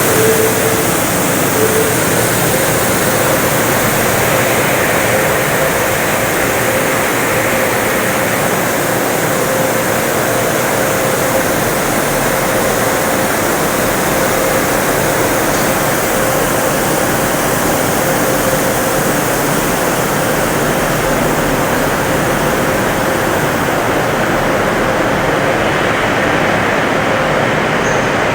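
Storm touchless automatic car wash running: a steady rush of machinery and spray noise with a thin steady hum underneath. The hissing top end eases off a little near the end.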